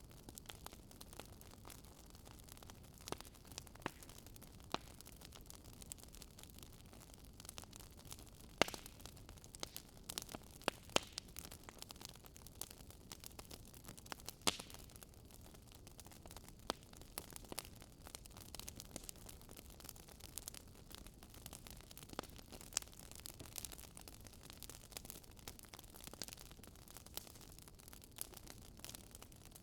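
Wood fire crackling: a soft steady hiss with irregular sharp pops and snaps, a few louder ones scattered through.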